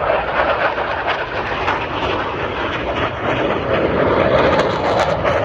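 Airplane engine noise, a steady loud rush that swells slightly near the end.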